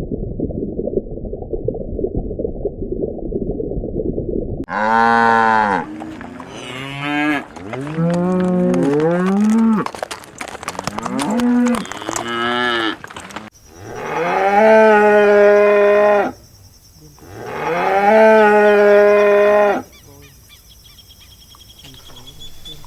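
Cattle mooing: a string of short calls that swoop up and down in pitch, then two long, level moos near the end. The calls start about five seconds in, after a few seconds of low, rough rumbling noise.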